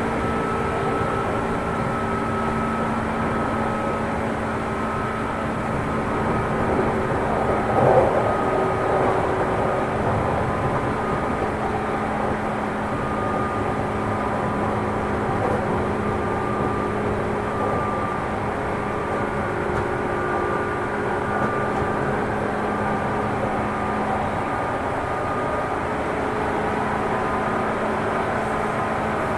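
Running sound inside a JR 205 series commuter EMU motor car travelling at speed: a steady rumble of wheels on rail, with several held tones from the externally fan-cooled traction motors and gearing. A brief knock about eight seconds in.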